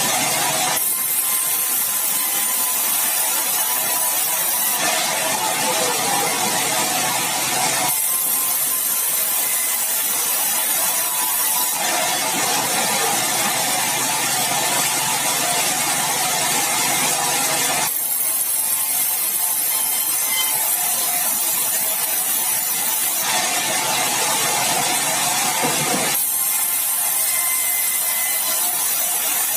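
Sawmill saw running and cutting meranti batu timber: a loud, steady mechanical noise with a hiss. Its character changes abruptly every few seconds.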